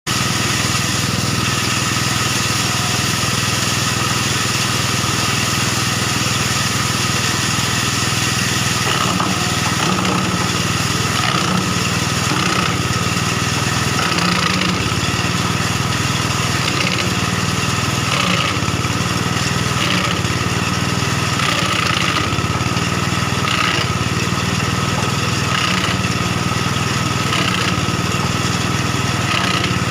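Engine-driven wood crusher (sawdust machine) running with a steady loud drone. From about nine seconds in, short harsher bursts break through every second or two.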